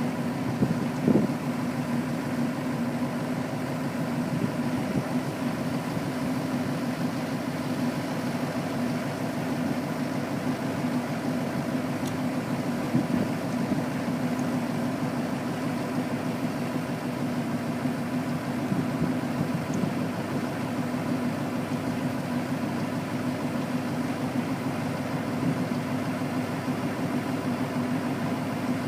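Truck engine idling steadily, with a couple of knocks about a second in.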